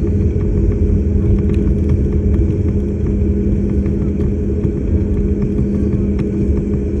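Steady airliner cabin drone from the engines and airflow, a constant low rumble with a steady hum.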